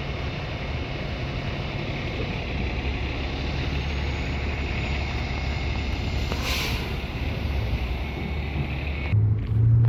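Steady low rumble of street traffic and vehicle engines, with wind on the microphone. A brief hiss comes about six and a half seconds in, and near the end the sound turns muffled with a loud low hum.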